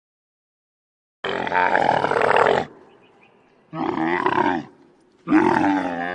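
An animal calling three times: one long rough call about a second in, then two shorter calls whose pitch bends.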